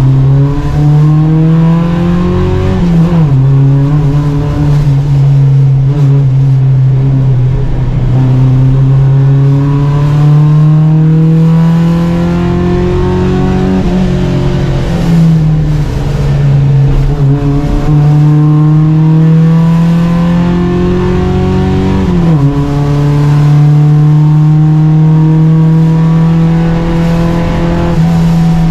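Volvo Amazon 121 race car's engine running hard under racing load, its pitch climbing steadily for several seconds at a time and falling sharply at gear changes or lifts, about 3, 14 and 22 seconds in.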